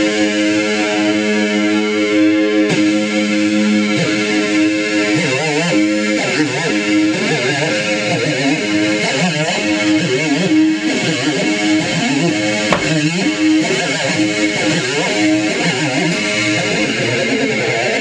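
Homemade one-string electric diddley bow, amplified and distorted, with the single string hammered on. It holds one droning note for the first few seconds, then the pitch bends and wavers up and down without a break.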